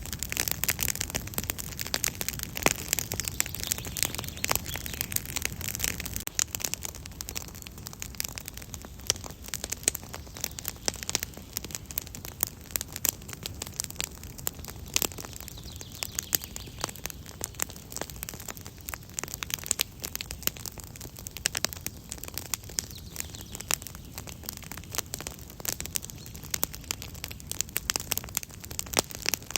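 Campfire crackling: irregular sharp pops and snaps over a steady soft hiss.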